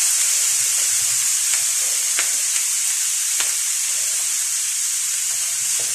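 Chopped pork sisig sizzling steadily in a hot nonstick pan with butter, with a few sharp pops of spitting fat.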